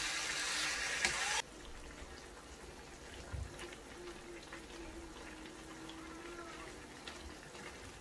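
Chicken strips sizzling loudly in a frying pan. The sound cuts off abruptly about a second and a half in, leaving a much quieter simmer with a few faint scrapes of a wooden spatula.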